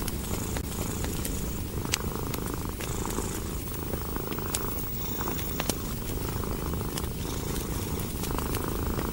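A domestic cat purring steadily, a low rumble that swells with each breath, while a wood fire crackles with scattered sharp pops.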